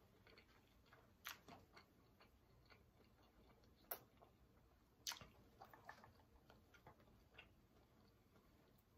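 Faint closed-mouth chewing: scattered soft, wet mouth clicks and smacks, the sharpest a little over a second in, about four seconds in and about five seconds in.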